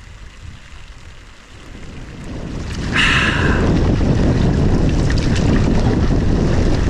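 Wind buffeting the microphone, rising after about two seconds into a steady loud rumble, with a brief hiss about three seconds in.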